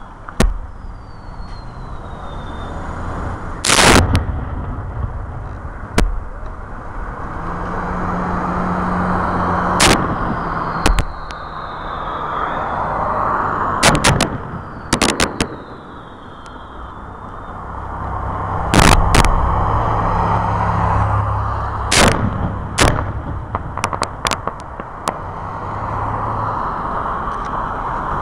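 Aerial fireworks shells bursting in a series of sharp booms, irregularly spaced, some in quick clusters of two or three, over a steady background noise with a few faint falling whistles.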